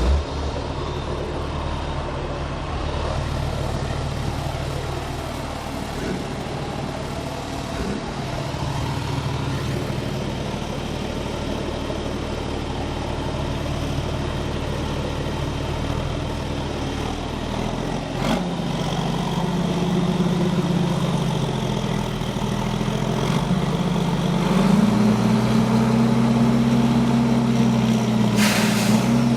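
Rally race trucks' diesel engines idling at the start line, then revving louder and higher in steps through the last ten seconds. A short hiss comes near the end.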